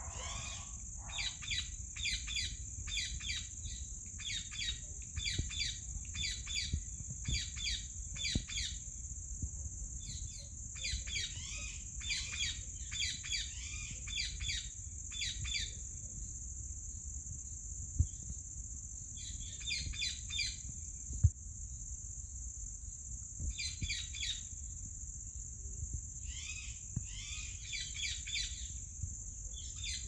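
Bird calls in runs of quick, repeated chirps with pauses between the runs, over a steady high-pitched insect trill. Two sharp clicks come in the second half.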